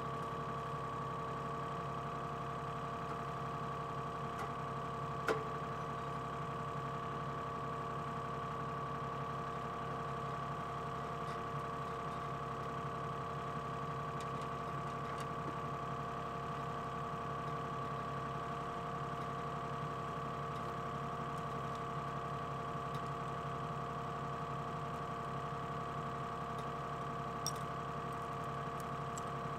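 Excavator engine running at a steady speed with an even hum. A sharp click comes about five seconds in, and a smaller one near the end.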